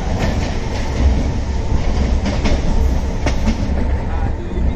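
Train running across a river bridge, heard from aboard: a steady low rumble of the wheels with irregular sharp clacks over the rail joints.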